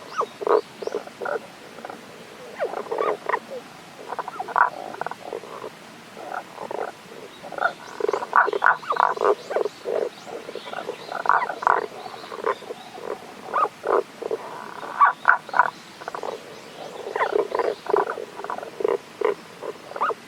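Tago's brown frogs calling: series of short, low croaks repeated in bouts every few seconds.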